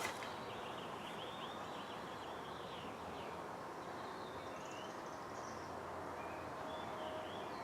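Faint background hiss with small birds chirping softly now and then.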